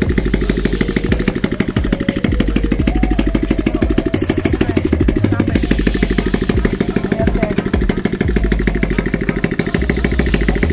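Motorcycle engine idling loudly and steadily with its exhaust removed, a fast, even train of firing pulses from the open exhaust port as it warms up.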